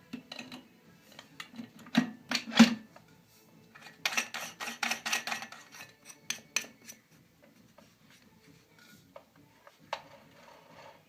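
Metal parts clinking and scraping in short, irregular bursts, loudest about two to three seconds in, with another run of clatter around four to five seconds in.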